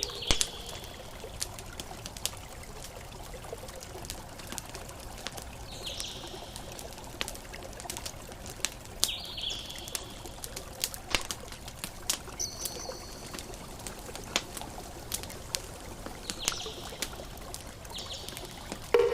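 Campfire crackling, with scattered sharp pops, over a steady wash of water. A bird chirps briefly about half a dozen times.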